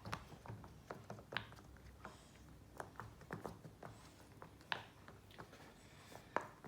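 Silicone pop-it fidget bubbles being pressed down one after another: faint, irregular soft pops and clicks.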